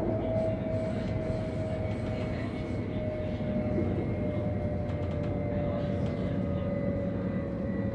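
Inside a passenger train carriage running at speed: a steady rumble of the train on the track, with a high whine that slowly falls in pitch.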